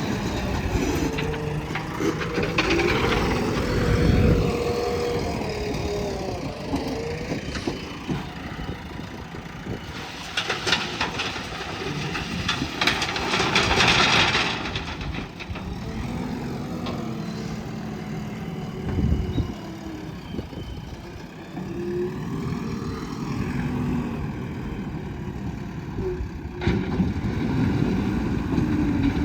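JCB 3DX Plus backhoe loader's diesel engine running under load, its pitch rising and falling repeatedly as the hydraulics work the loader. A rattling clatter sounds for several seconds about a third of the way through.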